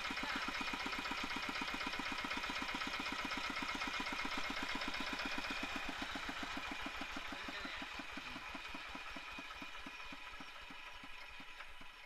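Tractor diesel engine running steadily with an even, rapid firing beat, after new valve stem seals and an injector adjustment meant to cure its smoking. Over the last several seconds the beat slows and fades.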